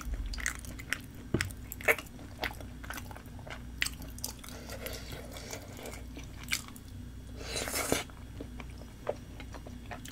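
Close-miked chewing of spicy tteokbokki rice cakes, with many short wet mouth and lip clicks. A brief sucking slurp comes about three-quarters of the way through, after a spoonful is taken.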